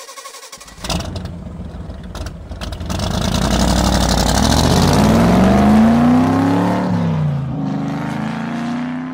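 Car engine starting and revving: a sudden start with a few clicks, then the engine note climbing in pitch, dropping about seven seconds in, climbing again and fading near the end.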